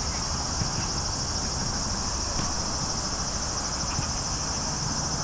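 Steady, high-pitched chorus of summer insects, shrilling without a break, over a low rumble.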